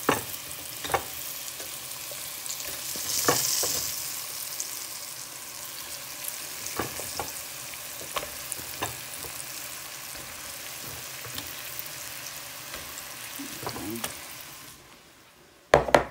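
Floured green tomato slices frying in hot oil in a skillet: a steady sizzle with scattered pops and crackles. The sizzle fades about a second before the end, and then come a couple of sharp knocks.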